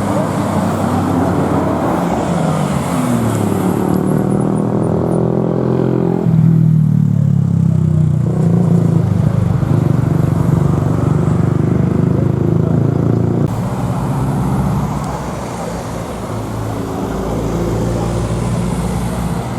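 Engines of modified cars accelerating past, their pitch rising over the first few seconds, then loud and steady for several seconds before the sound changes suddenly.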